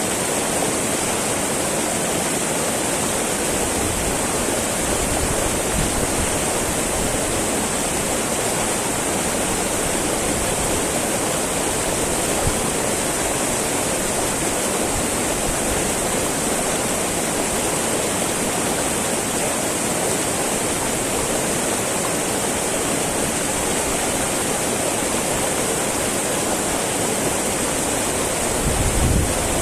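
A small mountain river babbling and rushing steadily over its bed, an even, unbroken wash of flowing water. Near the end a brief low rumble rises under it.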